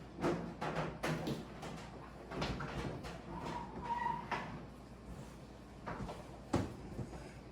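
Refrigerator doors and drawers being opened, shut and handled: a run of knocks and clatter, with a brief steady tone about halfway through and a sharp knock near the end.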